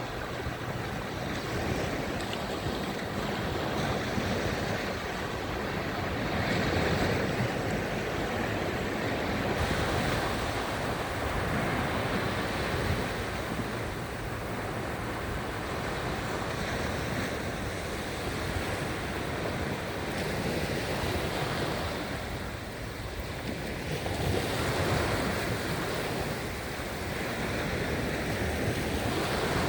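Sea waves washing onto the shore, a steady surf noise that swells and eases every few seconds, with wind buffeting the microphone.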